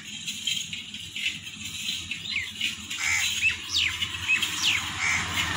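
Small birds chirping: a run of short, sharp, quickly gliding high chirps in the second half, over a low steady hum.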